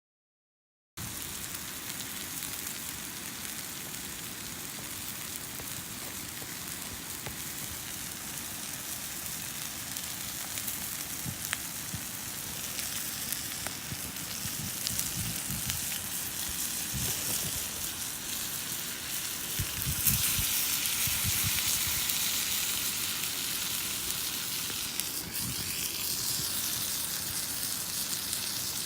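A thick steak sizzling in a frying pan over an open wood fire, a steady hiss with small pops that grows louder about twenty seconds in. It starts after a second of silence.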